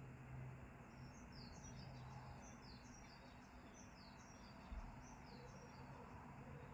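Faint birdsong: a small bird repeating quick, high, falling chirps in a run of about a dozen notes lasting roughly four seconds. A low hum sits underneath, with a soft low thump near the end of the song.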